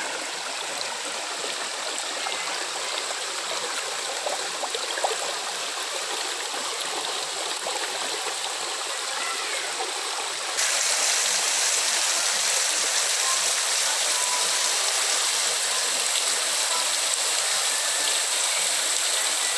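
Steady rush of falling water from a waterfall. About halfway through it abruptly becomes louder and brighter.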